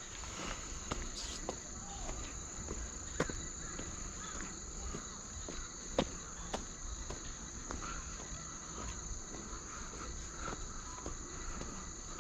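Crickets chirping in a steady high-pitched chorus, with a few sharp clicks.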